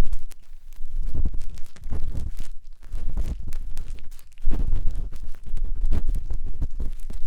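Matchstick scraping and rubbing inside a 3Dio binaural microphone's silicone ear, heard as close, irregular scratching with a deep rumble and short pauses.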